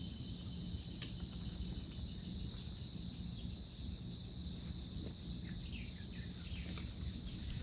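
Crickets trilling steadily over a low background rumble, with a few faint chirps.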